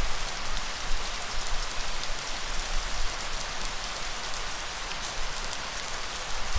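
Steady rain falling on surfaces: an even hiss of many drops, with fine individual drop ticks in it.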